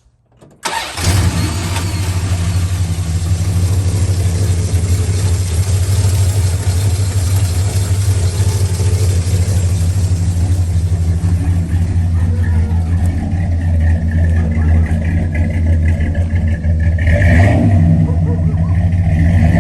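Engine of a 1989 Dodge D-100 pickup starting within the first second, then idling steadily, with a short extra noise about three-quarters of the way through.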